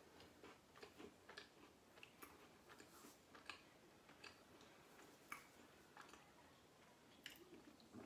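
Faint, irregular mouth clicks of someone chewing a cracker spread with nut butter.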